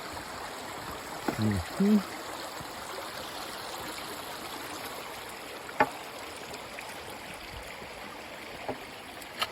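A river rushing steadily over rocks nearby. A short vocal sound comes about a second and a half in, and a few sharp clicks come later on.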